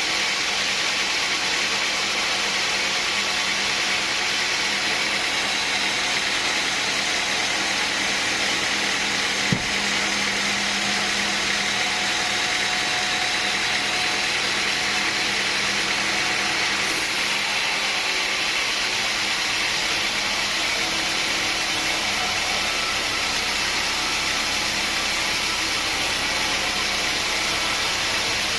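Sawmill machinery running steadily, an even mechanical noise with one sharp knock about ten seconds in.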